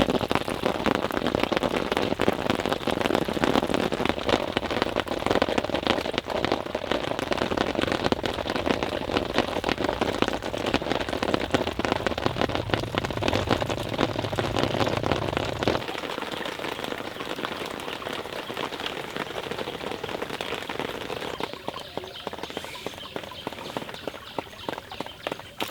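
Rain pattering steadily in a dense stream of small drops. About two-thirds of the way through, the deeper rumble underneath drops away and the patter goes on more quietly.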